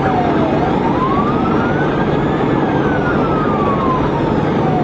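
Police car siren on a slow wail, its pitch falling, rising for about two seconds, then falling again, over steady engine and road noise.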